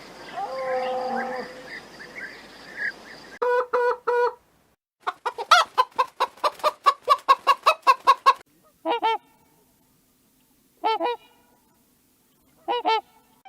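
Waterfowl calling: three quick calls, then a rapid run of about a dozen calls at roughly four a second, then single calls about every two seconds.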